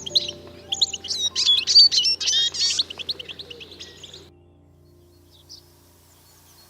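Birds chirping in quick, rising and falling notes over soft background music. The chirping stops about four seconds in, leaving only the music.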